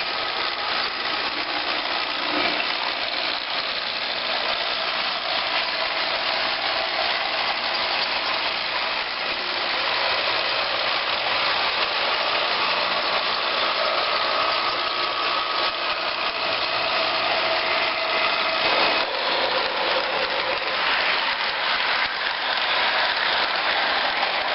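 Train running: a steady mechanical hum with a steady whine over it, changing in tone about 19 seconds in.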